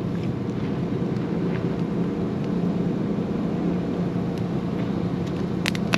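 Steady low hum of an engine running, over a constant background rumble, with a brief sharp click near the end.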